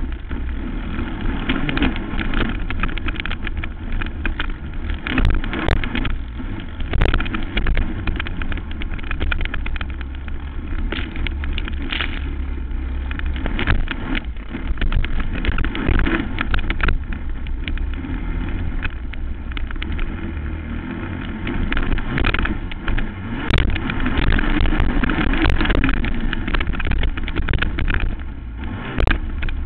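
Racing quad's engine running hard under changing throttle, with many short sharp knocks and rattles mixed in.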